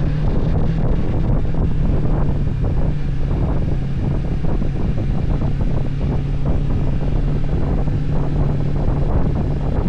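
Motorcycle engine running at a steady cruise, its low note holding constant, with heavy wind buffeting on the microphone while riding.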